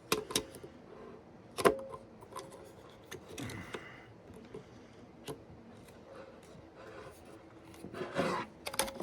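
Hands wrenching at the stuck lid of a glass pickle jar: scattered clicks and knocks, the sharpest about two seconds in, with soft rubbing and scraping of grip on the lid.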